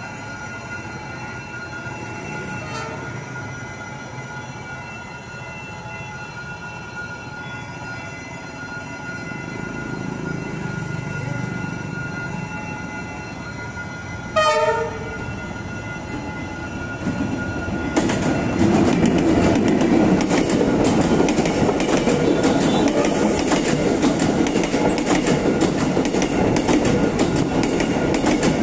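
Passenger train approaching: its horn gives a faint short blast about 3 seconds in and a louder short blast about 14 seconds in. From about 18 seconds the train passes close by, and its wheels clatter loudly over the rails.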